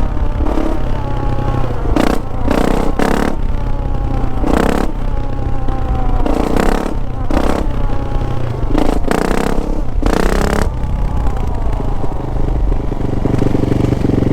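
Yamaha YZ450F's 450 cc four-stroke single-cylinder engine running, with repeated short bursts of throttle about every one to two seconds and the pitch falling back between them.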